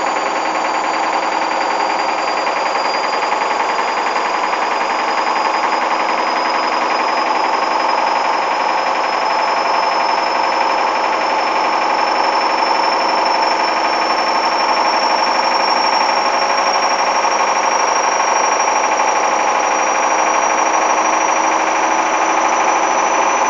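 Hoover washing machine's motor driving the drum in a spin, a continuous whine that rises slowly in pitch as the drum speed builds.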